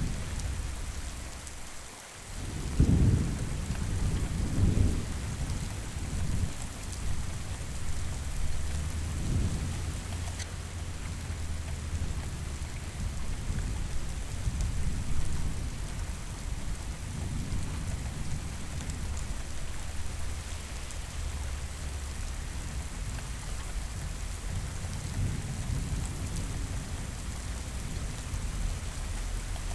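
Steady heavy rain with thunder. A loud clap and rumble breaks in a few seconds in, followed by more rolls, then low rumbling that carries on under the rain.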